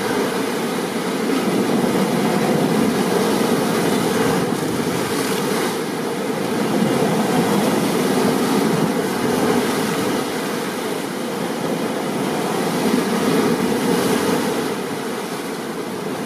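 Steady storm ambience of rain and ocean surf: a dense rushing noise that swells and eases gently.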